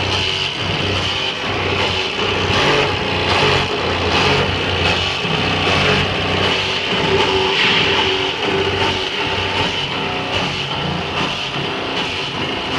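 A vehicle driving in circles, its engine and drivetrain running steadily with a high whine throughout; this is the noise being checked.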